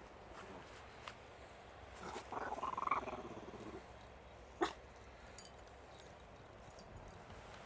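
Shiba Inu dog growling in play, a short high-pitched growl about two seconds in that lasts a second and a half, followed by a single sharp tap.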